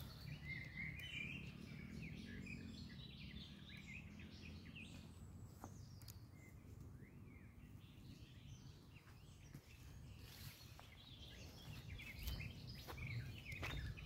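Small birds chirping and calling over a faint low rumble. Footsteps start up near the end.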